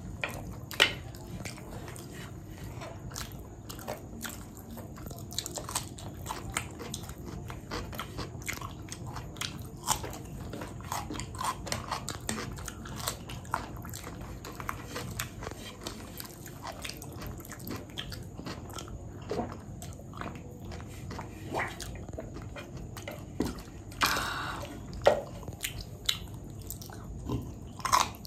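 Close-up eating sounds: chewing and biting of fried rice and chicken curry, with many small sharp clicks and smacks throughout. A louder short burst of noise comes about four seconds before the end.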